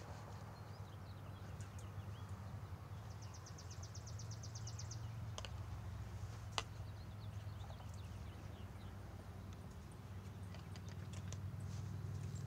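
Birds chirping faintly, with a fast, even trill of about a dozen notes around three to five seconds in, over a steady low hum. Two sharp clicks come about a second apart in the middle.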